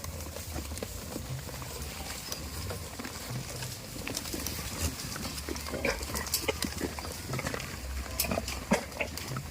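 Goats making short sounds close up, with scattered clicks and knocks that come more often after a few seconds, over a low steady hum.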